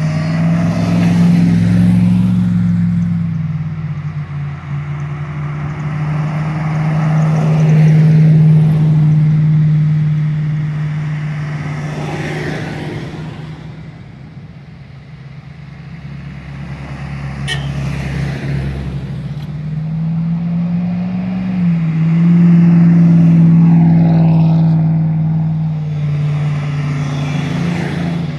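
A 4x4 off-road vehicle's engine running under load, its sound swelling and easing several times as it is driven.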